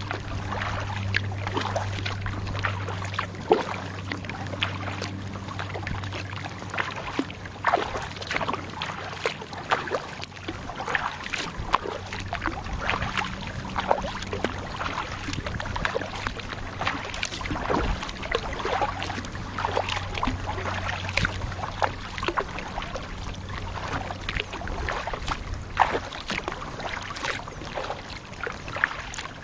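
Kayak paddle dipping and splashing, with irregular drips and small splashes of water. A low steady hum sounds under it at the start, fades out after about five seconds and returns in the middle.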